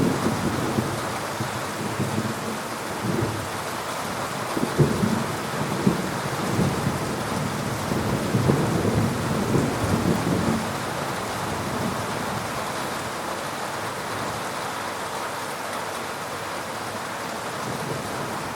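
Heavy rain falling steadily during a thunderstorm. A low crackling rumble of thunder runs through the first half and dies away about ten seconds in, leaving only the rain.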